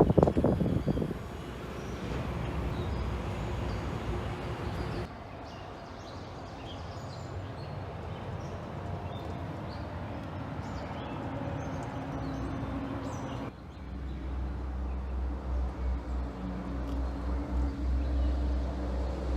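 Ford 6.8-litre V10 gasoline engine of a box truck running, in several spliced segments, with a brief louder surge at the start and a deep, pulsing rumble in the last part. Birds chirp faintly in the middle segment.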